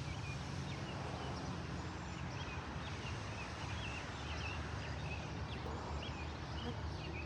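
Several small birds chirping, with short quick chirps overlapping throughout, over a steady low rumble.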